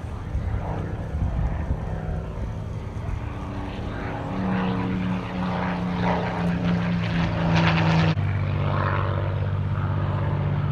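Supermarine Spitfires' Rolls-Royce Merlin V12 engines at full power in a flypast. The engine note grows louder and peaks about eight seconds in, then falls suddenly to a lower pitch as the aircraft pass.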